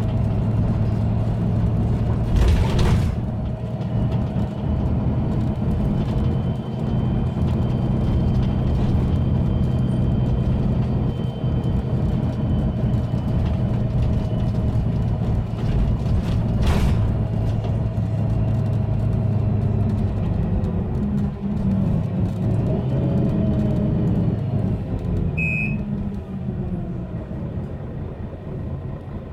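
Mercedes-Benz Citaro bus's OM457hLA diesel engine running under way, a steady low drone with a thin high turbo whistle above it. Two sharp knocks come about 3 s and 17 s in. Toward the end the engine note shifts and eases off, with a short high beep.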